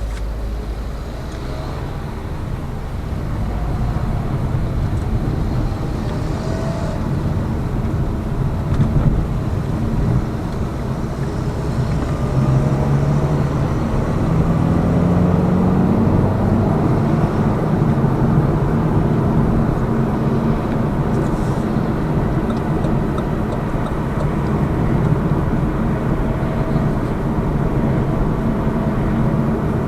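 Lada Vesta Cross's 1.8-litre engine and road noise heard from inside the cabin while driving, a steady rumble with the engine note rising as the car accelerates a little under halfway through.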